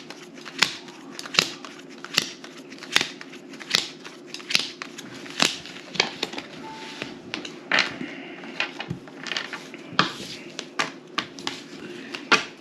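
Playing cards being dealt one at a time onto a table, a sharp snap roughly every second or less, with a steady low hum underneath.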